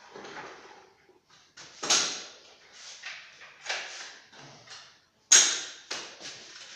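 Building work noises: rough scraping and rustling strokes, with a sharp knock about two seconds in and a louder one about five seconds in.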